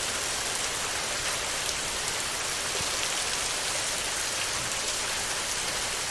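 Heavy rain falling on a tin roof: a steady, dense hiss with scattered taps of single drops.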